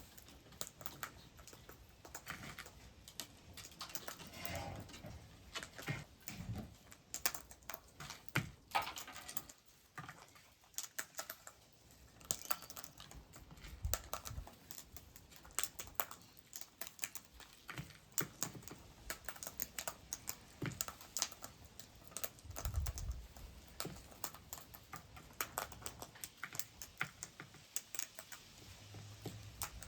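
Birds pecking and feeding: a steady, irregular patter of small clicks and taps, with a few soft low thumps.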